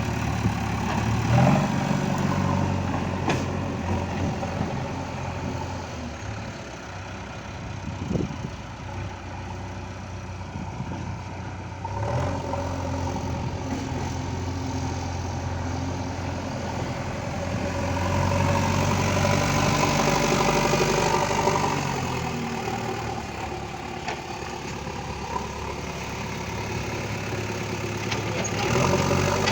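JCB 3DX backhoe loader's diesel engine running while working, its revs and loudness rising and falling and loudest about two-thirds of the way through, with a couple of short knocks.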